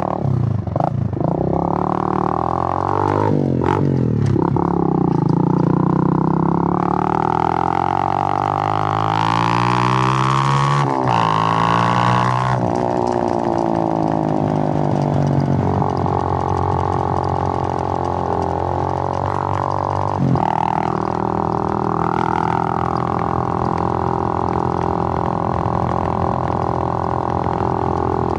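Suzuki GN125's single-cylinder four-stroke engine running under way, its note climbing and dropping several times as it accelerates and changes gear in the first half, then holding a steady cruise.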